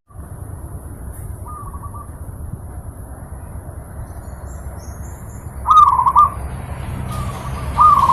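Zebra dove (perkutut) cooing in short trilled phrases: a faint one about a second and a half in, and louder ones near six seconds and at the end. A steady low rumble runs underneath.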